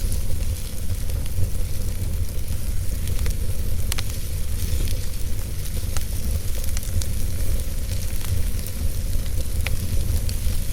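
Wood fire burning in a fireplace: a steady low rumble with a soft hiss of flames, and scattered sharp crackles and pops from the burning logs.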